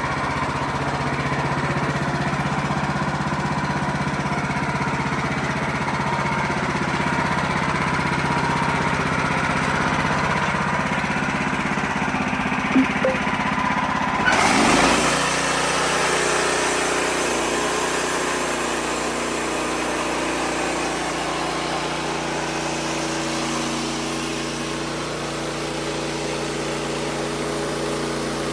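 Wood-Mizer LX55 sawmill's engine running steadily. Its tone changes abruptly about halfway through.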